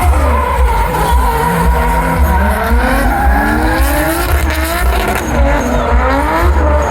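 Drift car engines revving up and down at high rpm, their pitch rising and falling again and again, with tyres squealing as the cars slide.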